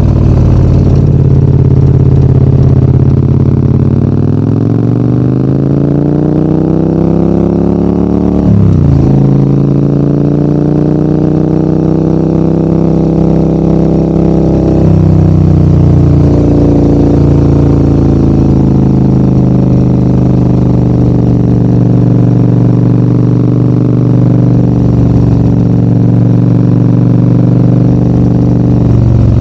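Adventure motorcycle's engine pulling uphill: the revs climb, drop sharply at a gear change about a third of the way in, climb again, then ease off and hold fairly steady.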